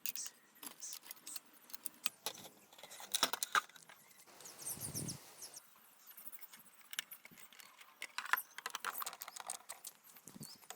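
Faint, scattered metallic clicks and clinks of small parts and tools being handled as the heating-element housing of an electric water heater is fitted back on, with a short rushing noise a little before halfway through.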